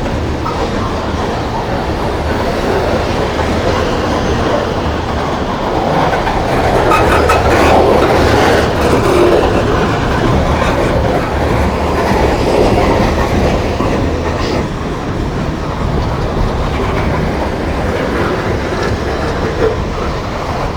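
A long freight train rolling past at close range: a steady rumble of cars going by, with wheels clacking over the rail joints, slightly louder for a few seconds in the middle.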